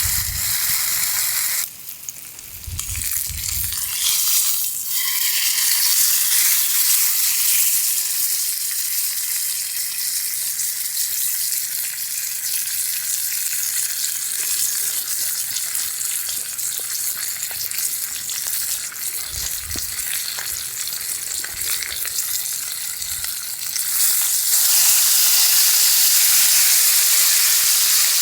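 Food sizzling and frying on a camp grill or pan: a steady high hiss with small crackles. It dips briefly about two seconds in and grows louder near the end.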